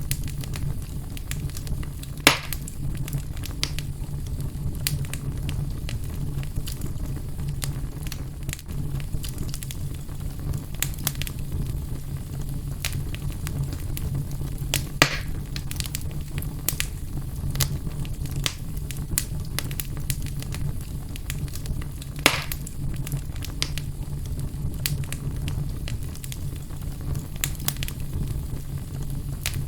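Wood fire in a fireplace crackling steadily over a low rumble, with three louder pops: one about two seconds in, one midway and one about three-quarters through.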